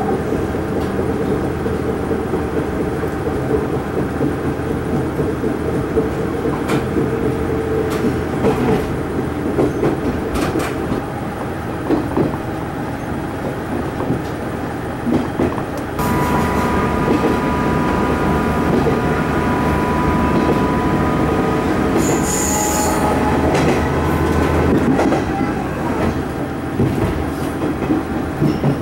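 JR Hachiko Line electric train heard from inside the car while running: steady running noise with irregular clicks of the wheels over rail joints and points. About halfway through it abruptly gets louder and a steady whine joins in.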